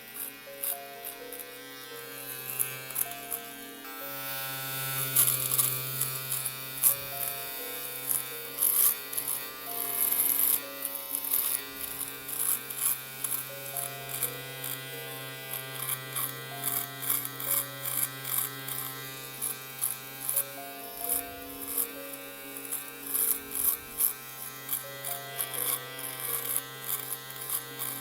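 Electric shaver buzzing steadily, with frequent short, sharper crackles over the hum.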